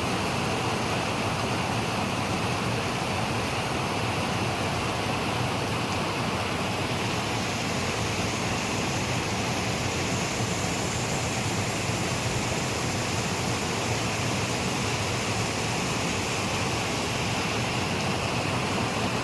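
Steady rain falling, an even hiss with no single drops or rumbles standing out.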